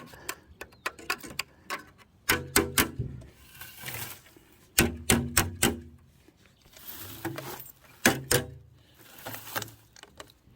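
Sheet-metal stove flue pipe being knocked and handled to shake loose three years of built-up soot: clusters of sharp clicks and knocks, some with a short hollow ring, a little over two seconds in, near the middle and again at about eight seconds.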